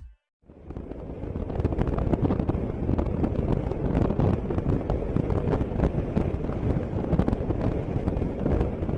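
Heavy wind buffeting and crackling on the microphone over a running vehicle. It starts about half a second in and then holds steady.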